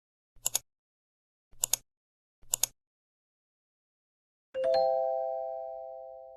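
Three short, sharp clicks about a second apart, then a bell-like chime of three quickly rising notes that rings out and fades over about two seconds.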